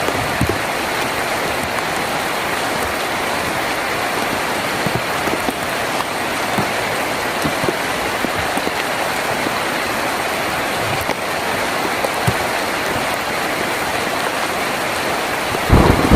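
Heavy rain drumming steadily on a tin roof, with scattered louder individual drops. Just before the end a loud, low rumble of thunder breaks in.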